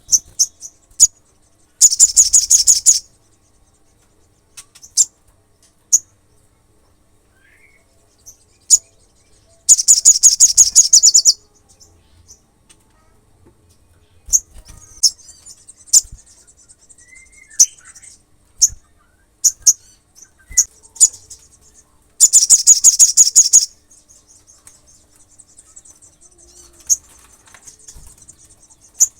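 Olive-backed sunbird calling: sharp, high chips scattered throughout, broken by three fast rattling trills lasting a second or two each, about two, ten and twenty-two seconds in.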